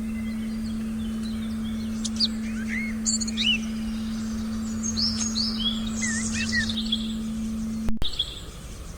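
Forest birds chirping and calling over a steady sustained meditation tone, with several quick rising and falling chirps in the middle. About a second before the end the tone cuts off abruptly and the sound drops to quieter birds and background.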